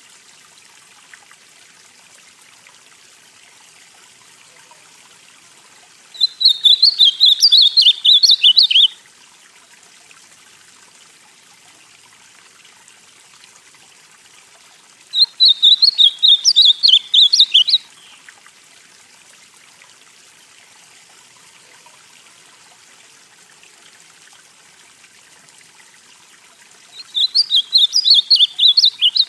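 Male ultramarine grosbeak (azulão, northeastern form) singing three short, quick warbled song phrases of about three seconds each, spaced about ten seconds apart, over a faint steady hiss.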